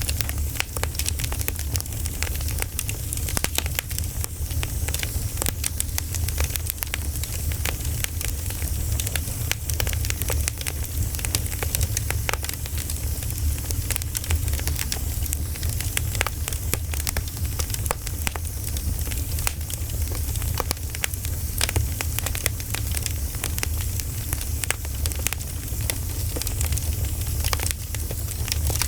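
Bonfire crackling, with frequent irregular sharp pops and snaps over a steady low rumble of the flames.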